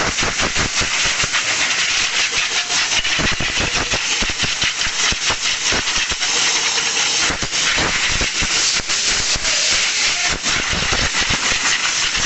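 A loud, steady hissing rush with a crackly texture, starting abruptly just before and holding without a break.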